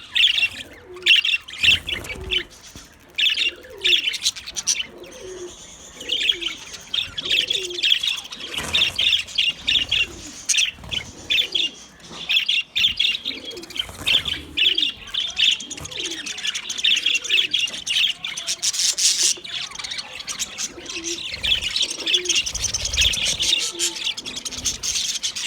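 Budgerigars chirping and chattering continuously in rapid, overlapping calls.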